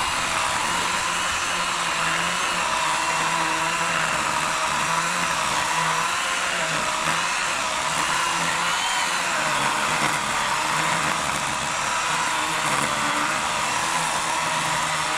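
Worx WG384.9 40-volt battery electric chainsaw with an 18-inch Oregon bar, running steadily under load as it makes a curved top cut through a fallen log. Its whine wavers slightly in pitch as the chain bites into the wood.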